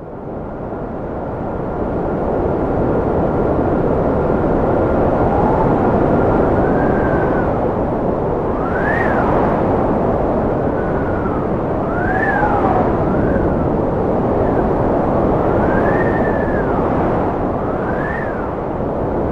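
Cold wind blowing hard, fading up over the first two seconds, with a whistling howl that repeatedly rises and falls in pitch over the steady rush.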